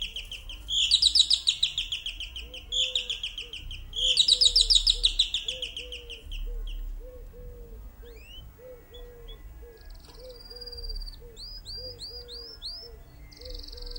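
Several songbirds singing: loud, rapid high trills that fall slightly in pitch, repeated four times in the first half, then thin rising whistled notes in quick series later on. Under them a short low note repeats about twice a second throughout.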